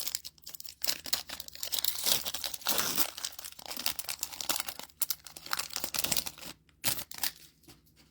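Plastic booster pack wrapper being torn open and crinkled by hand, with dense crackling that dies away about seven seconds in.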